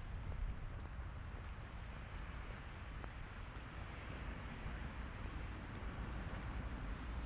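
Outdoor walking ambience: a steady low rumble under an even hiss, with a few faint ticks.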